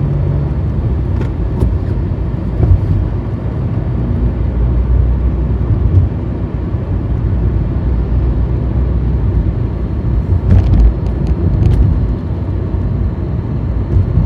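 Car driving along a road: a steady low rumble of engine and tyres, with a few short clicks about ten to eleven seconds in.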